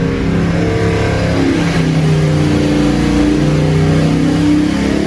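Car engine running and revving, its pitch rising and falling several times.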